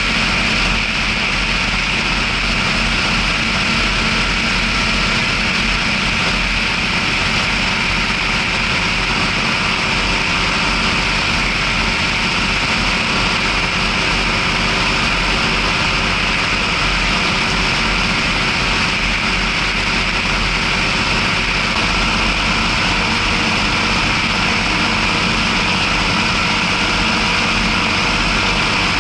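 John Deere 6620 tractor's diesel engine running steadily under load while driving, heard from the cab.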